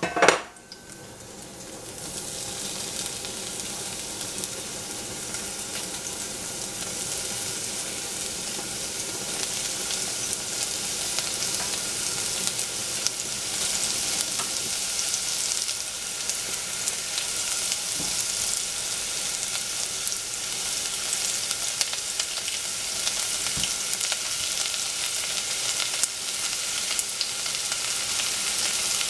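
Oyster mushrooms sizzling as they fry in hot oil in a stainless steel saucepan, after a brief loud hit right at the start. The sizzle sets in about two seconds in and grows slowly louder.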